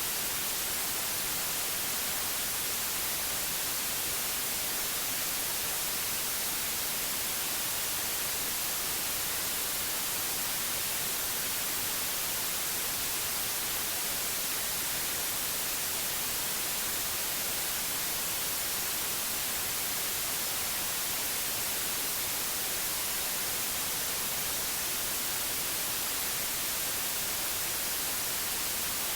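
Steady, unchanging white noise: an even hiss, strongest in the high frequencies, with no breaks or other sounds.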